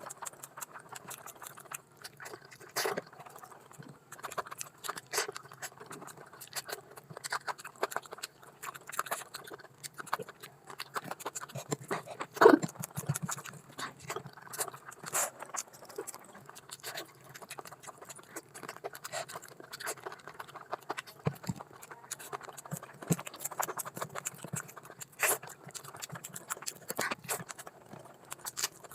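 Close-miked eating sounds of spicy curry with rice: wet chewing, lip smacks and mouth clicks in a dense run, with one louder smack about twelve seconds in.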